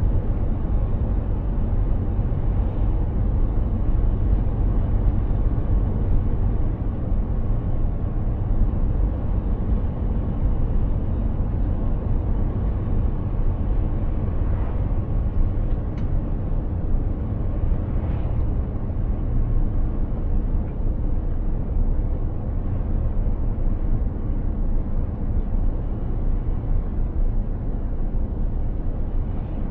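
Mercedes-Benz Actros 2763 truck driving along, its engine and tyres making a steady low rumble, with a couple of faint short sounds about halfway through.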